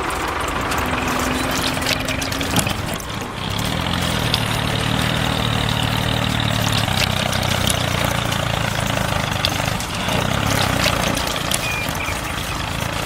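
An engine running steadily, with a low hum that comes in about four seconds in and fades around ten seconds.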